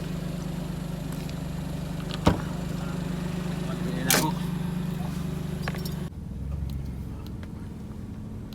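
Steady low drone of a car running, heard from inside the cabin, with two sharp clicks about two and four seconds in. The background changes abruptly about six seconds in to a quieter rumble.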